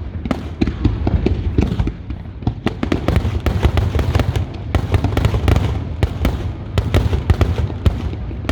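Aerial fireworks bursting in rapid succession: a dense barrage of sharp cracks and booms over a continuous low rumble.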